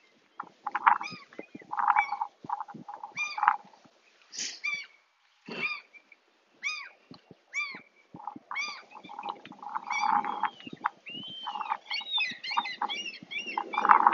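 Birds calling over and over, short arching calls one after another, becoming a denser overlapping chorus in the last few seconds.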